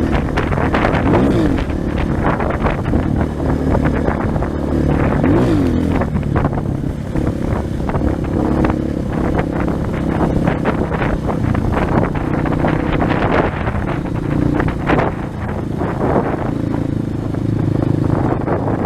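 230 cc trail motorcycle engine running under way, with brief rises and falls in revs about a second in and again around five seconds, and wind buffeting the microphone.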